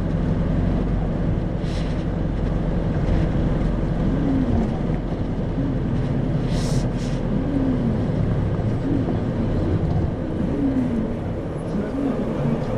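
Isuzu 2RG-LV290N4 city bus running, a steady diesel engine hum with road noise; the engine note eases off about four seconds in.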